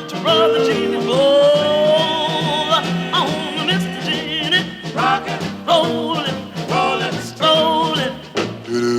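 Swing-style band music with no lyrics: a lead melody of long held notes that slide in pitch and waver, then short choppy phrases in the second half, over the band's backing.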